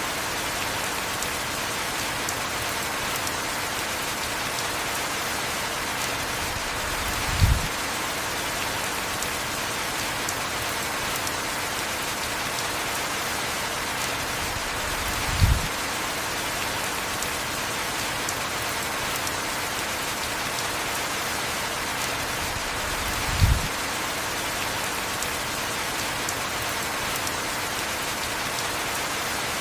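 Steady heavy rain falling on a surface. A short, low thump cuts through it three times, evenly spaced about eight seconds apart.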